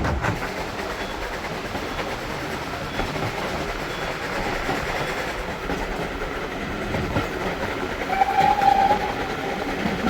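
Steam train carriage rumbling and clattering steadily along the rails, with the locomotive's steam whistle sounding one steady note for about a second near the end.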